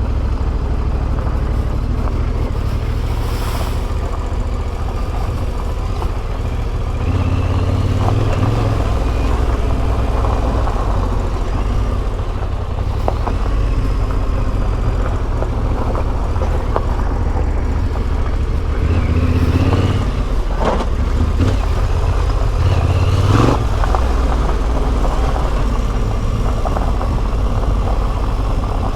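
Yamaha Ténéré 700's CP2 689 cc parallel-twin engine running through an Akrapovic exhaust while riding, the engine note stepping up and down with throttle and gear changes, with a few short knocks.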